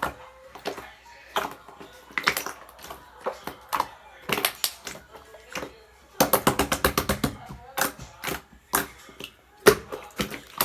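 Slime being squished and pressed by hand, giving a string of sharp clicks and pops from trapped air, with a fast run of pops about six seconds in.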